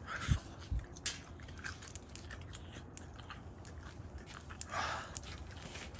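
Someone biting and chewing hot grilled beef close to the microphone, with many small scattered clicks over a low steady background hum.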